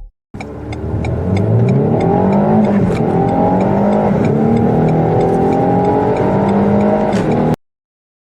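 Car engine at full throttle, accelerating hard from a standstill. Its pitch climbs, drops back at each upshift and climbs again several times, then cuts off suddenly near the end.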